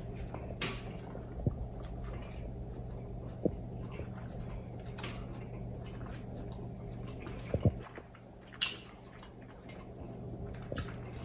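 Two people chewing and smacking their lips while eating with forks, with scattered small clicks and a few sharper knocks, over a faint steady low hum.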